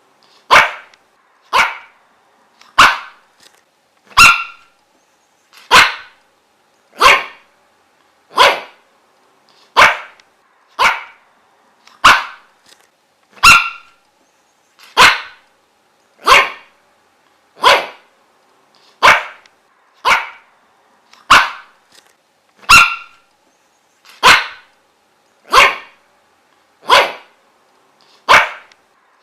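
A dog barking single sharp barks at a steady, even pace, about one every second and a bit, some twenty barks in a row.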